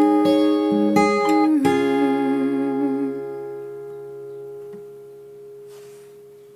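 Guitar music: a few last notes with sliding pitches, then a final chord struck about one and a half seconds in and left to ring, slowly fading away.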